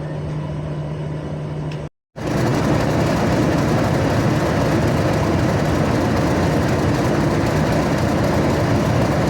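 Railway train running: a steady low engine hum, then, after a sudden cut about two seconds in, a louder, rougher running noise that stays steady.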